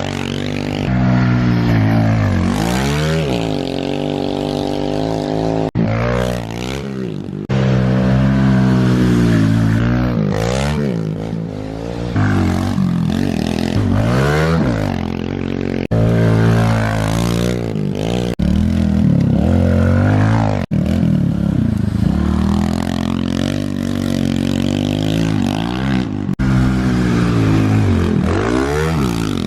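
Kawasaki KLX110 minibike's small single-cylinder four-stroke engine revving up and down as it is ridden, its pitch rising and falling over and over, with a few abrupt breaks where the recording is cut between clips.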